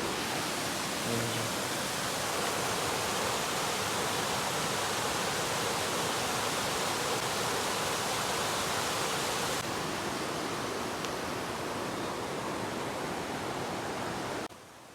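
A mountain stream rushing steadily, a dense even sound of flowing water that cuts off abruptly near the end.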